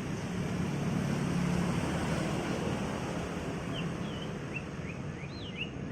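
Steady outdoor background rumble and hiss, with a small bird chirping a quick run of short rising notes in the last couple of seconds.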